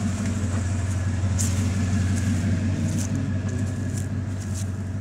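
Car running, a steady low drone, with a few faint clicks.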